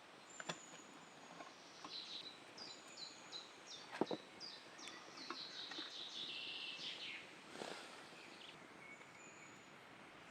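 A songbird singing a quick run of short, high, repeated notes over quiet woodland background, with a few sharp clicks, the loudest about four seconds in.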